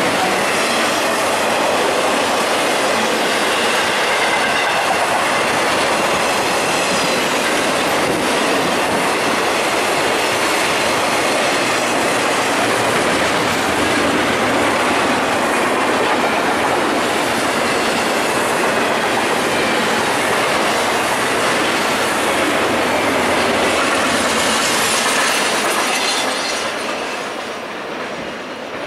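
BNSF intermodal freight train's container and trailer cars rolling past on the rails, wheels clattering steadily. The sound falls away near the end as the last cars pass.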